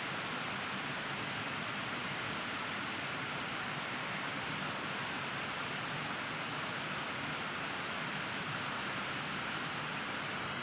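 A steady, even rushing hiss with no separate sounds standing out, such as wind, moving water or distant traffic would make.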